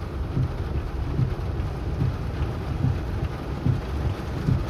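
Rain falling on a vehicle's roof and windshield, heard from inside the cabin as a steady hiss with a low rumble underneath.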